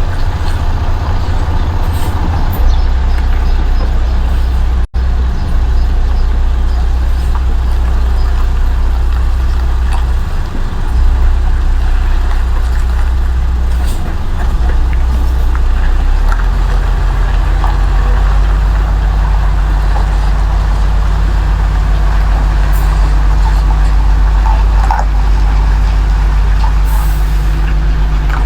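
Heavy truck's diesel engine running, a low drone that shifts pitch a few times as the engine speed changes.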